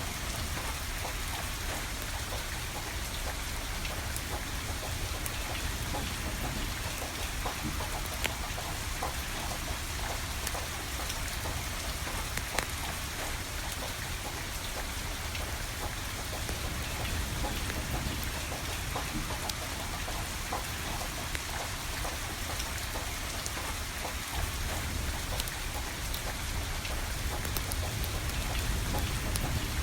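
Steady rain falling, with the crackle and sharp pops of a burning wood fire scattered through it, a few louder pops standing out, over a low rumble.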